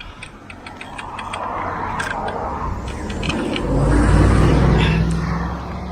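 A motor vehicle passing close on the road. Its tyre and engine noise swells to its loudest about four seconds in, then fades.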